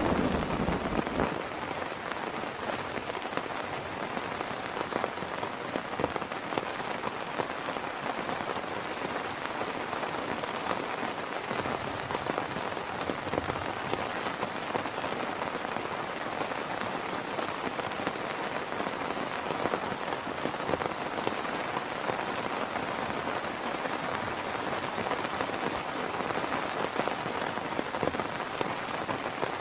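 Heavy rain falling steadily and pattering densely on a surface. The tail of a thunder rumble dies away in the first second.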